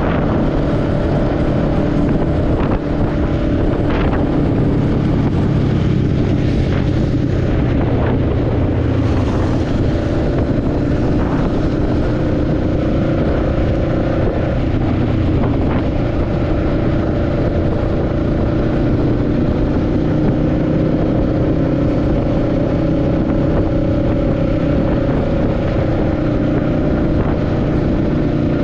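Motorcycle engine running at fairly steady revs while riding, with wind rush on the microphone.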